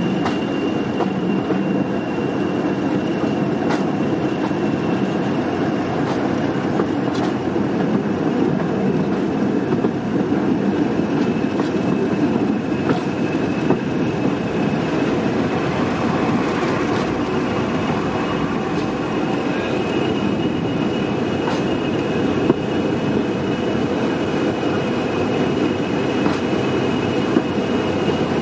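A train running along the track: a steady rumble of wheels on rail, with a thin steady whine above it and a few scattered clicks.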